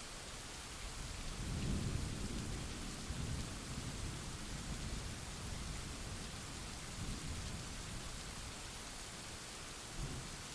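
Steady heavy rain hissing, with a roll of low thunder that builds about a second in, rumbles on unevenly for several seconds and dies away, then one short low rumble near the end.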